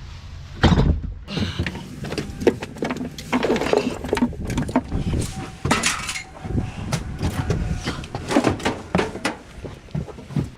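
Scrap metal being handled and thrown down: a run of irregular clanks, knocks and rattles, several a second at times.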